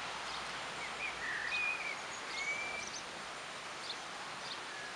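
Small birds chirping, with short high chirps throughout and a few brief whistled notes in the middle, over a steady outdoor hiss.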